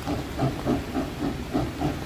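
Steam locomotive exhaust chuffing steadily, about four beats a second.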